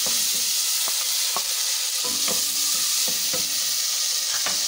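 Chopped tomatoes and fried onions sizzling in hot oil in an aluminium pressure cooker, stirred with a wooden spatula that knocks and scrapes against the pot about eight times.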